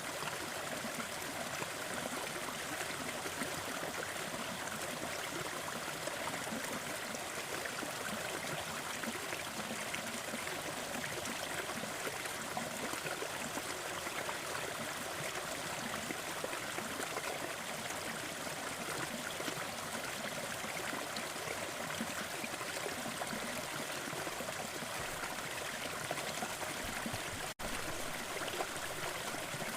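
Small forest waterfall with steady, even rushing and splashing water. A split-second break in the sound comes near the end.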